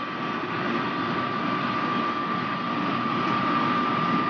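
High-speed electric train running at about 250 km/h: a steady rushing noise with a high whine that climbs slightly in pitch as the train gathers speed.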